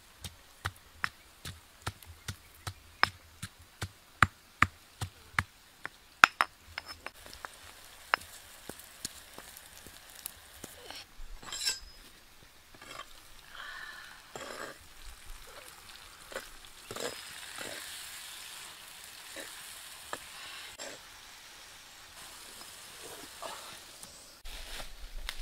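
Water spinach sizzling as it fries in a wok over a wood fire. For the first several seconds there is a quick, regular run of sharp clicks, about three a second, which are the loudest sounds; after that the clicks turn sparse and softer.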